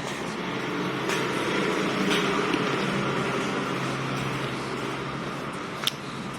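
An engine running with a steady low hum, growing a little louder for a couple of seconds, and a sharp click near the end.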